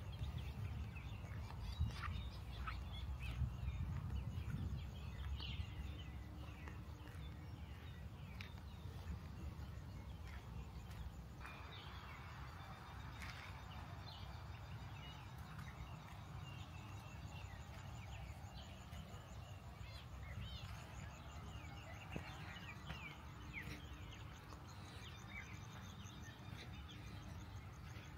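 Wild birds chirping and calling in many short, quick notes over a low steady rumble.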